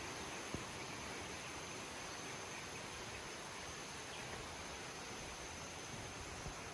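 Steady outdoor ambience: a continuous high insect drone over a faint even hiss, with one sharp click about half a second in.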